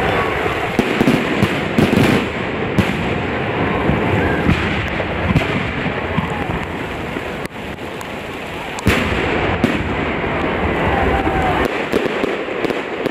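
Fireworks display: aerial shells bursting with sharp bangs every second or so over a dense, continuous crackle and hiss. One of the loudest bangs comes about nine seconds in.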